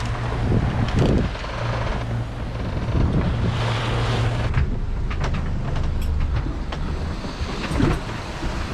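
Wind buffeting the microphone with sea water rushing and washing along a sailing yacht's hull while under way; a louder wash of spray swells up about halfway through.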